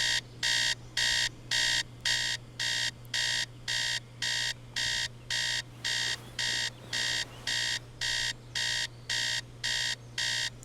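Electronic alarm beeping, short high-pitched beeps repeating evenly about twice a second, over a steady low hum.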